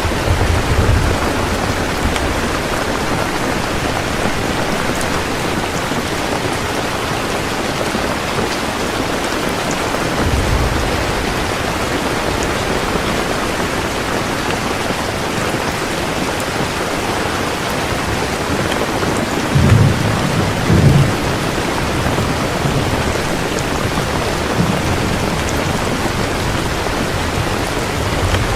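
Heavy rain pouring steadily. Low rumbles of thunder rise under it at the start, again about ten seconds in, and most loudly twice around twenty seconds in.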